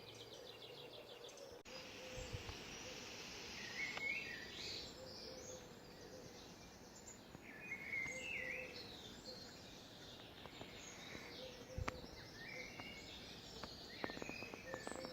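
Faint dawn chorus of songbirds singing short, scattered phrases, over a low steady hum.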